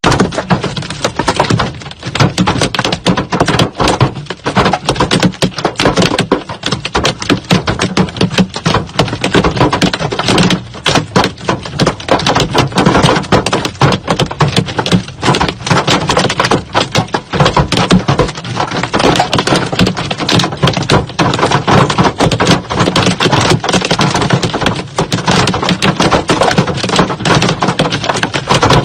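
Heavy hail pelting a hard surface: a dense, irregular clatter of countless stone impacts over the hiss of the storm.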